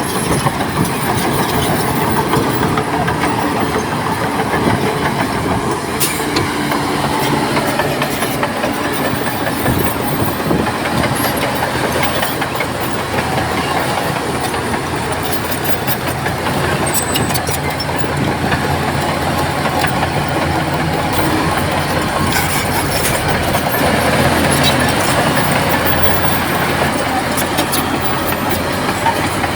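Crawler bulldozers' diesel engines running steadily under load as they push soil, with scattered clanks from the steel tracks.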